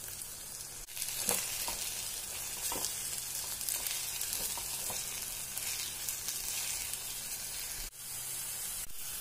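Onion, tomato and spice-powder masala sizzling in a pan while being stirred: the powders being fried until their raw smell goes. The sound drops out briefly twice.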